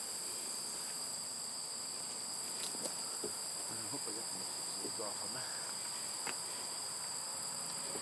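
Steady outdoor insect chorus of crickets trilling continuously in two high, unbroken pitches, with a few faint clicks.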